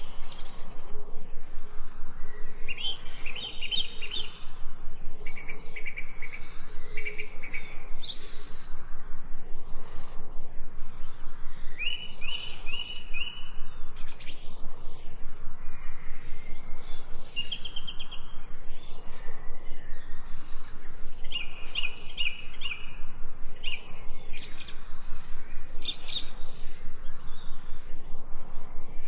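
Several forest birds singing and calling at once: short phrases of quickly repeated notes and sharp chirps overlap throughout.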